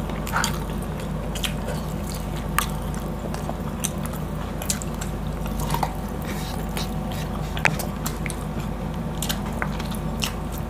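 Close-miked mukbang eating: chewing with wet mouth clicks and lip smacks as boiled pork and rice are eaten by hand, over a steady low hum.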